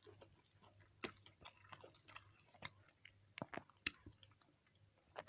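Close-miked chewing and biting of food, with irregular wet smacks and crisp clicks, the sharpest about a second in and just before four seconds.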